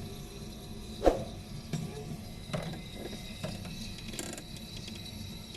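A sharp knock about a second in, followed by a few lighter clicks and taps over a steady low hum.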